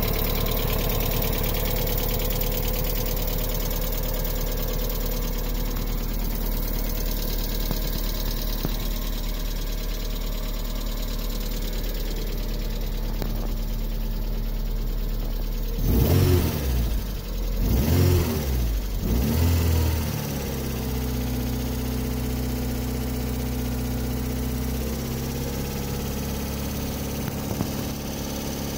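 1998 MGF's 1.8 K-series four-cylinder engine idling steadily, then revved three times in quick succession a little past halfway before settling back to idle. It is making a noise that concerns the owner, on its first run after standing for a few months.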